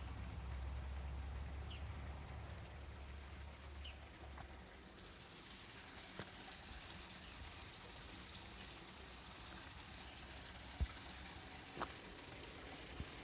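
Low rumble of a diesel train fading away over the first few seconds, leaving quiet outdoor ambience with a few faint bird chirps and a couple of sharp clicks near the end.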